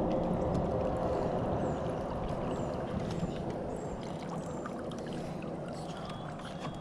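Hangkai 4 hp four-stroke outboard motor running just after a restart, its hum fading over the first couple of seconds, with water gurgling and splashing around the boat.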